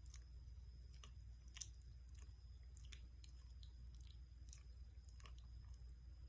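A small kitten chewing: faint, irregular wet clicks and crunches over a low steady hum.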